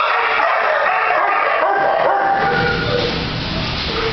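Many kenneled shelter dogs barking at once, a continuous overlapping din.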